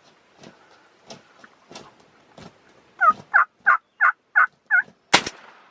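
A wild turkey makes a run of six evenly spaced yelps, about three a second, then a shotgun fires once at close range, the loudest sound, about five seconds in. Faint scattered ticks come before the calls.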